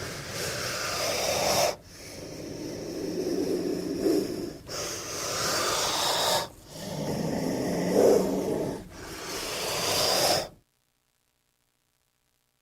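King cobra hissing: five long, breathy hisses in a row, each a couple of seconds long with a brief pause between. The sound cuts off abruptly near the end.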